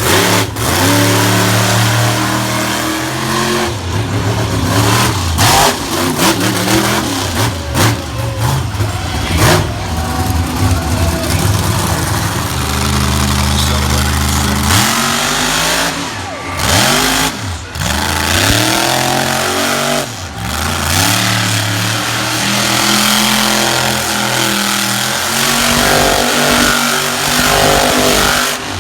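Monster truck engines revving hard and loud, the pitch climbing and dropping over and over. A deep steady engine drone underneath stops about halfway through.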